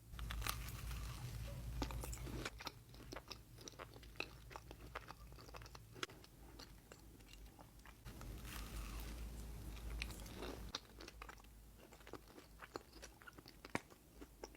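Close-up eating sounds of a person biting into and chewing a pastry: many small crisp crackles and crunches. A low rumble comes in twice, at the start and again about two-thirds of the way through.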